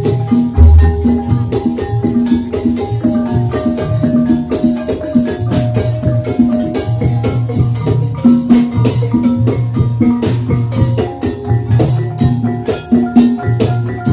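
Banyumasan gamelan music for an ebeg trance dance: fast interlocking patterns on mallet-struck keyed instruments over steady drum strokes, with a deep low stroke about half a second in.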